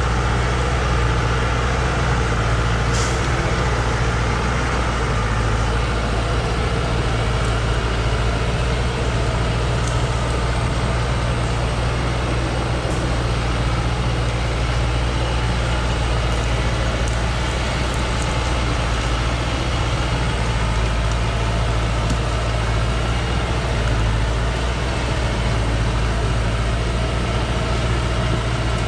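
Engine of a heavy timber-loaded truck running steadily with a low drone, with a few brief faint high clicks or hisses.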